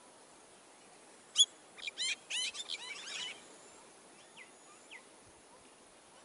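A bird singing: a rapid run of loud, looping whistled notes lasting about two seconds, followed by two short falling notes.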